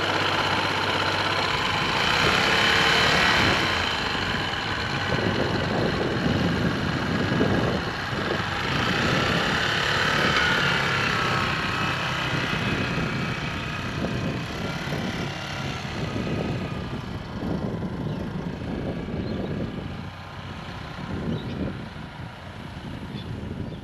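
Small motorcycle engine running, fading somewhat near the end.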